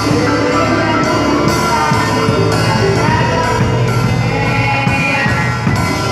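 A children's church band playing live in rehearsal: a full band sound with sustained bass notes and drums with repeated cymbal crashes.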